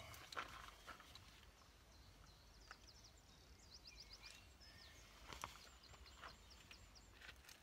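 Faint outdoor quiet with a small bird singing a run of quick, high chirps in the background, and a few soft clicks.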